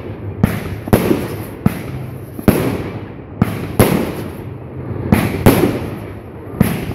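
Fireworks going off in a quick, irregular run of sharp bangs, about nine in seven seconds: shots rising and bursting into star bursts, each bang trailing off briefly.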